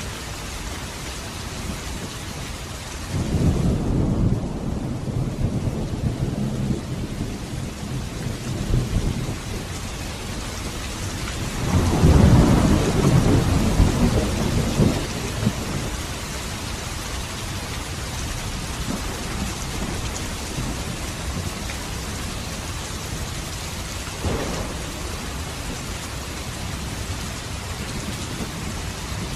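Steady rain falling, with low thunder rolling in twice: once about three seconds in and louder again near the middle, then a faint rumble later on.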